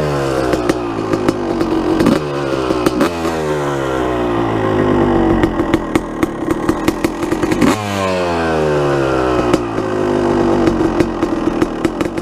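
Suzuki RM250 two-stroke single-cylinder dirt bike engine under way, revving up sharply and then falling away in pitch, about four times, with many sharp ticks throughout.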